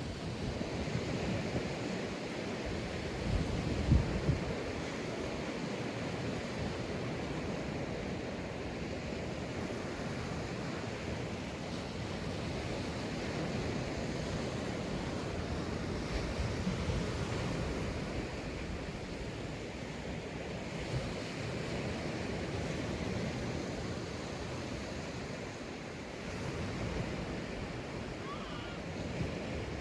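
Sea waves breaking and washing onto a sandy beach, a steady surf rising and falling in slow swells, with some wind on the microphone. A brief low thump about four seconds in.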